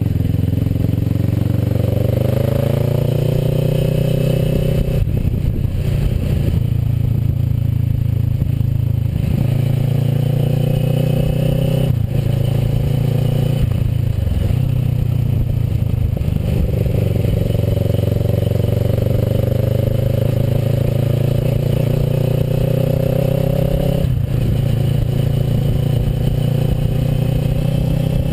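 Kawasaki Versys motorcycle engine under way, its pitch climbing as it accelerates and dropping at gear changes about five, twelve, fourteen and twenty-four seconds in.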